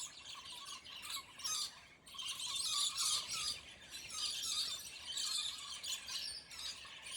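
Scaly-breasted lorikeets screeching harshly and almost without pause as they squabble and fight, with a brief lull about two seconds in.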